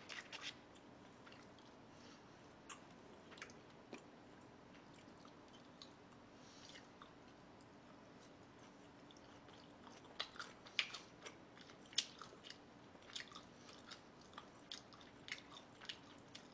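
Close-miked chewing: short wet mouth clicks and smacks of someone eating. A few come at the start and only sparse ones through the middle, then they come thick and fast from about ten seconds in.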